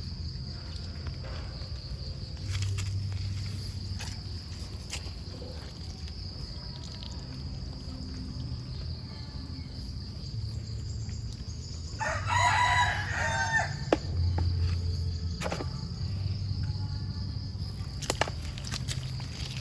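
A rooster crows once, about twelve seconds in, for about a second and a half, over a steady high drone of crickets.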